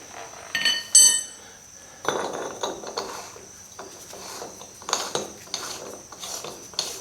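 Steel hub parts and tools clinking and scraping as they are handled. Two ringing clinks come about a second in, then a run of short knocks and rattles.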